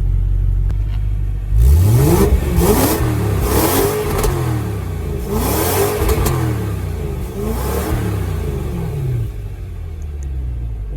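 BMW E93 M3's 4.0-litre V8 running through an aftermarket GRWA valved exhaust: idling, then revved several times from about a second and a half in, the pitch rising and falling with each blip, before settling back to idle near the end.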